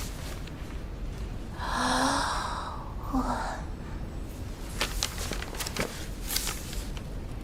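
A person sighing: one long breathy exhale, then a shorter second breath about a second later. A few light clicks or taps follow near the end.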